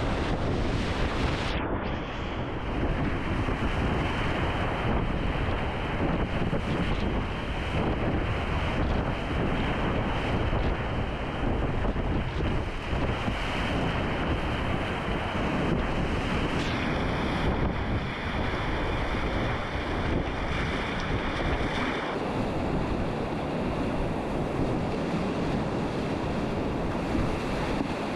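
Whitewater river water rushing steadily around a kayak, with wind buffeting the camera microphone.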